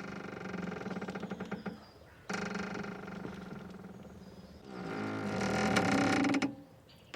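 Boat ropes creaking and squeaking under strain as the boat shifts: three drawn-out groaning creaks, each about two seconds long, the third the loudest.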